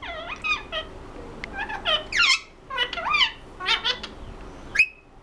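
Ringneck parrot talking in a run of short, high-pitched, speech-like phrases, with one sharp rising call near the end.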